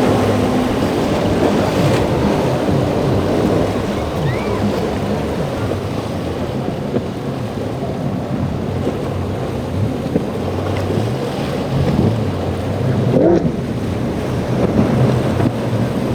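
Boat engines running through the inlet amid crashing surf and waves, with wind buffeting the microphone.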